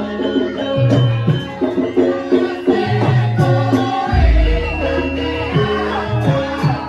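Javanese gamelan music accompanying a lengger dance: repeated drum strokes over ringing pitched tones, with a deep gong stroke about four seconds in.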